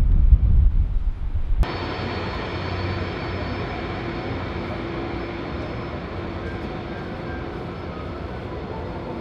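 Wind buffeting the microphone as a loud low rumble, cut off abruptly about one and a half seconds in. Then comes the steady engine noise of a jet airliner, with a faint high whine.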